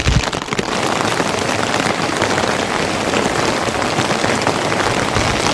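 Heavy rain falling: a dense, steady patter of drops hitting a surface.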